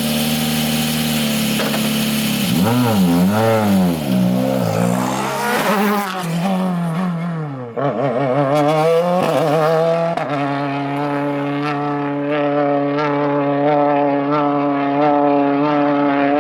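WRC rally car's turbocharged four-cylinder engine at full attack: its note rises and falls sharply with throttle and gear changes through a corner for several seconds, then holds a steady high note that climbs slowly as the car accelerates.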